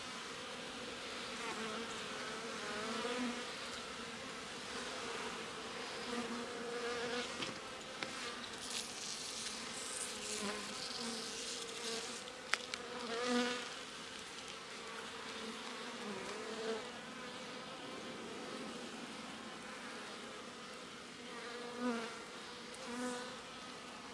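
Honeybees buzzing around an opened hive, a steady hum with single bees swelling louder and bending in pitch as they fly close past several times. A sharp click about halfway through.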